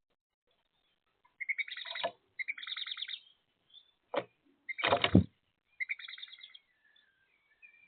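Small birds calling: three bursts of rapid chattering notes, with two short knocks in the middle, about a second apart, the second the loudest.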